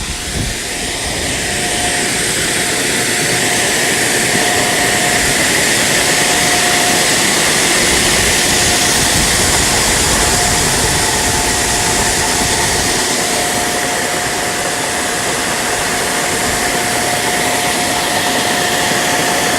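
Farm machinery running steadily: a loud, even rush with a constant high whine, unchanging throughout.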